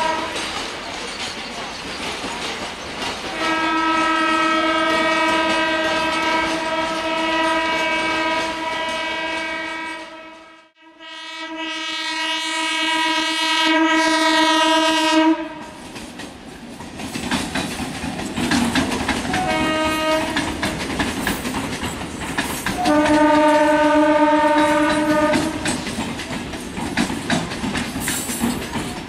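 Train wheels clattering over the rails as a freight train of container flat wagons and then an electric multiple unit local train pass. Over the clatter a train horn blows a long blast of about twelve seconds that dips briefly midway, then a short toot, then a second blast of two or three seconds.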